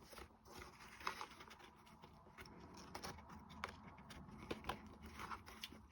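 Faint, scattered light clicks and taps of small wooden clock-kit pieces being handled and pressed into place.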